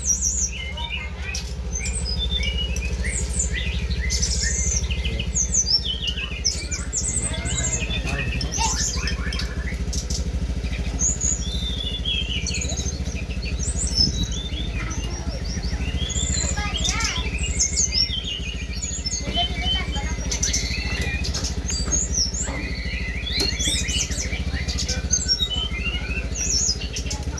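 Several songbirds singing at once, a dense run of quick overlapping chirps, whistles and trills with no pause, over a steady low rumble.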